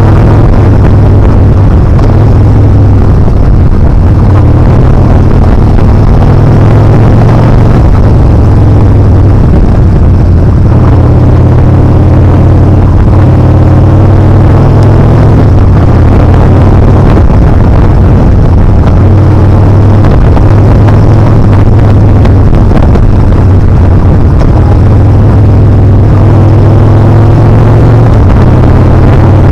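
Yamaha Bolt's air-cooled V-twin engine running under way, its note shifting up and down several times with throttle and gear changes, under heavy wind rush on the microphone.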